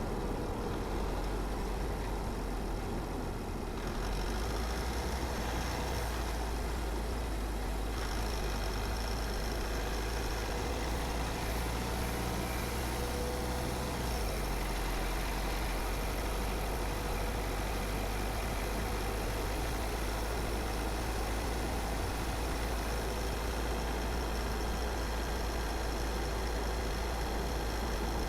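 Car driving along a road: a steady low rumble of engine and tyre noise, stepping up slightly about four seconds in.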